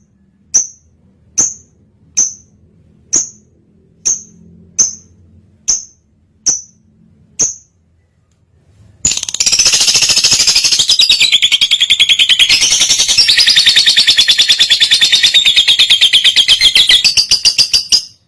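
Lovebird in breeding condition calling: a run of sharp, high single chirps about one a second, then after a short pause a long, fast rattling chatter (the 'ngekek' trill) lasting about nine seconds that cuts off suddenly.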